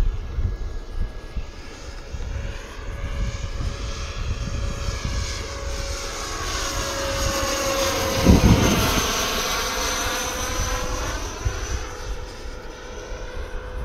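Engines of a scratch-built RC Boeing 737 MAX 7 model airliner whining as it makes a pass overhead. The sound grows to its loudest about eight seconds in, then fades, its pitch dropping slightly as it goes by. Wind rumbles on the microphone underneath.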